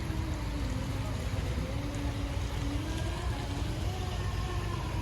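A vehicle engine running with a slowly wavering hum over a steady low rumble.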